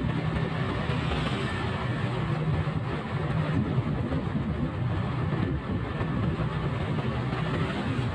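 Motorcycle engine running steadily while riding, with a constant rush of wind and road noise over it.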